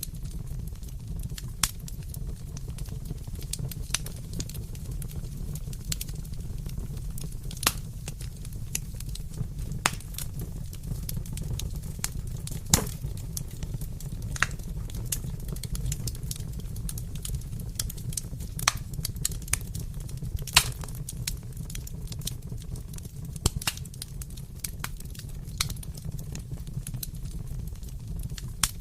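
Fire in a fireplace crackling: irregular sharp pops and snaps over a steady low noise.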